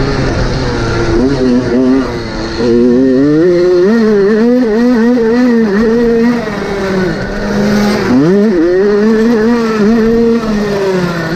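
Motocross bike engine revving hard, its pitch wavering up and down with quick throttle changes. About eight seconds in the revs drop sharply and climb back.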